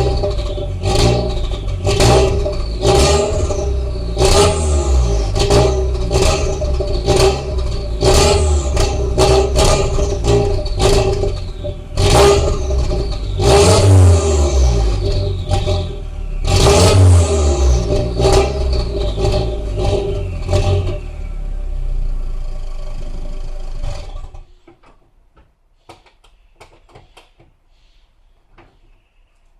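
Turbocharged four-cylinder of an Audi A3 1.8T, breathing through a 3-inch downpipe, 2.75-inch straight pipe, Cherry Bomb glasspack and emptied Supersprint muffler, revved in quick repeated throttle blips, with two longer revs about halfway through. It then idles briefly and shuts off about 24 seconds in, leaving only faint small knocks.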